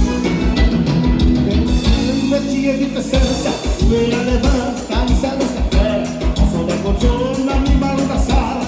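Live gaúcha dance music played by a band, with a steady drum beat under a melody.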